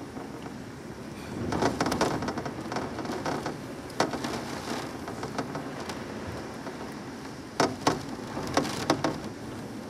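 Hurricane rain falling steadily, swelling heavier for a couple of seconds near the start. Sharp knocks or drips about four seconds in, and several more close together near the end.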